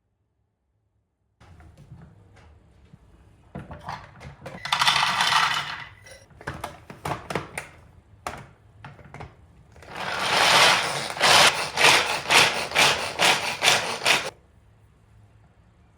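Kitchen food-preparation sounds: a burst of scraping about four seconds in, then a run of quick, rhythmic strokes from about ten seconds in that stops suddenly near the end.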